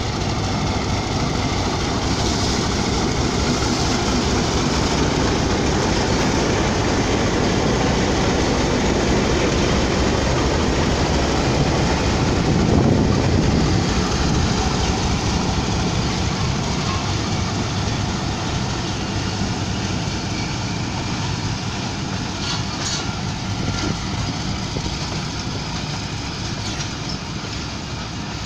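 Pakistan Railways diesel-electric locomotive pulling a passenger train away from a station. The engine grows louder as it draws level, loudest about halfway through, then the passenger coaches roll past and the sound slowly eases, with a few sharp clicks near the end.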